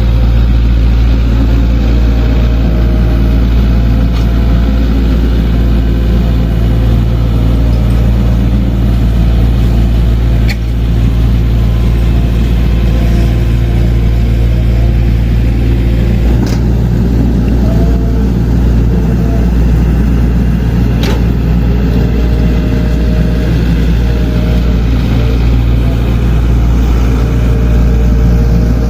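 Heavy earthmoving machinery working: a diesel engine runs loud and steady, its pitch shifting now and then with the load, with three sharp knocks along the way.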